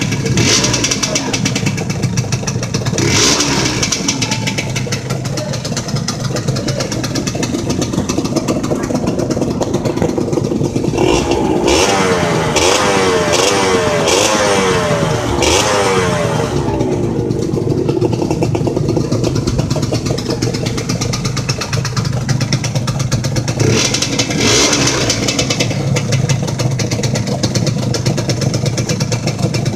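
Modenas Dinamik 120's two-stroke single-cylinder engine running as it warms up after long disuse. The throttle is worked throughout, and from about 11 to 17 seconds in it is revved up and down in quick repeated swings.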